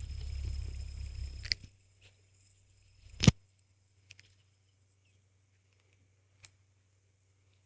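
A hand spinner whirring, then stopped with a click about a second and a half in. A single sharp, loud click follows a little later, then a couple of faint taps.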